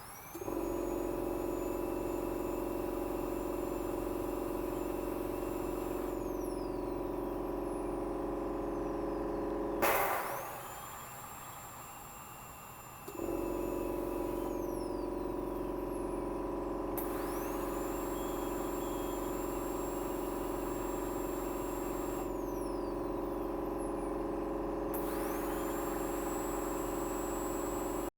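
Ultrasonic equipment running with a steady electrical hum of several fixed tones and a high whine, and faint high tones gliding down in pitch every few seconds. About ten seconds in it cuts off with a loud click, then starts up again about three seconds later.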